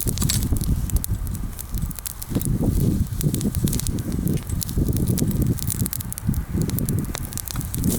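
Bonfire of mostly green, freshly pruned wood crackling with many sharp pops throughout, over an uneven low rumble that swells and fades.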